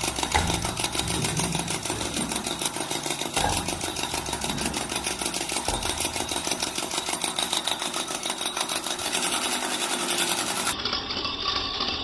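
A small motor running with a fast, even rattle. Near the end the highest hiss drops away.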